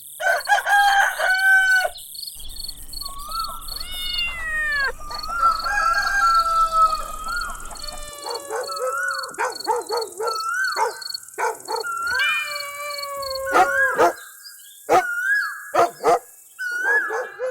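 A series of animal calls, some short and some drawn out, each gliding up and down in pitch.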